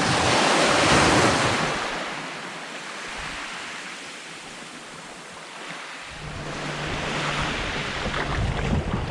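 Sea waves washing in: a surge of surf that peaks about a second in and fades away, then another building near the end, with wind on the microphone.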